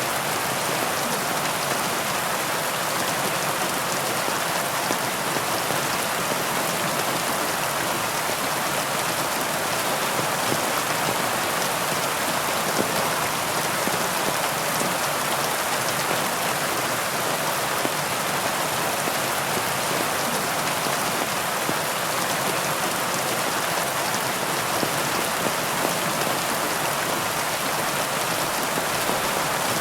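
Heavy rain falling steadily, a dense, even hiss of many drops that does not let up.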